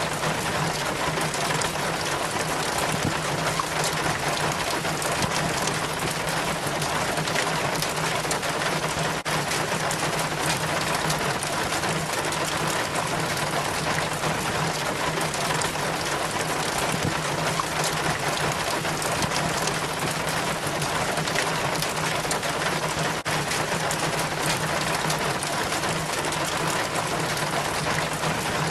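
Rainwater trickling and splashing down a rain chain from a roof gutter: a steady, dense patter of drips and running water.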